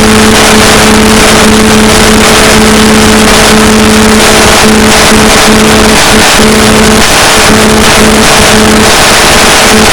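Loud, steady hiss of static from an analog FPV video receiver's audio channel, with a buzz that keeps cutting in and out: GSM interference from a mobile phone near the ground station.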